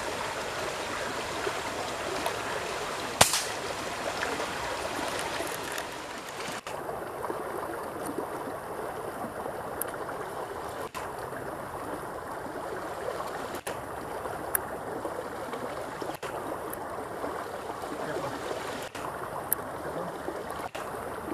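Steady rush of flowing river water, with one sharp click about three seconds in and the sound dropping out briefly several times.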